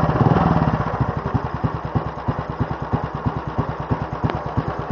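1937 NSU 201 OSL's single-cylinder four-stroke engine running, a little louder at the start and then settling into a steady idle of about ten beats a second.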